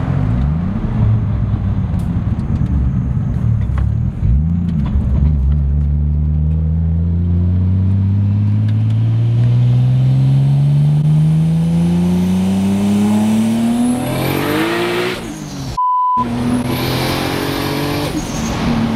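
Toyota Supra's tuned 2JZ-GTE turbocharged inline-six heard from inside the cabin, accelerating hard. Its pitch climbs steadily for about ten seconds, then drops at a gear change. Just after the shift the sound cuts out for an instant under a short beep tone.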